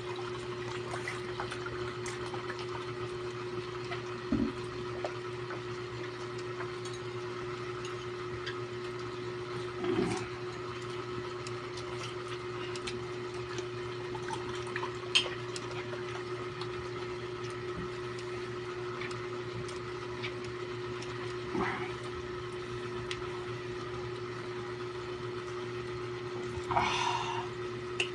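Steady low hum of a motor or appliance. A few brief, separate eating noises rise above it, the longest a short noisy one near the end.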